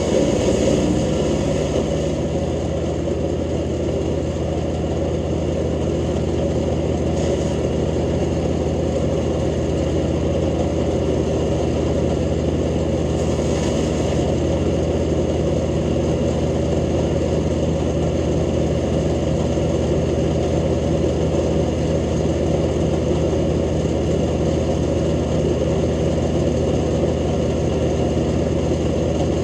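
Jansen GTS-1500 wood chipper's engine running steadily at a constant speed, with brief brighter surges near the start and about seven and fourteen seconds in.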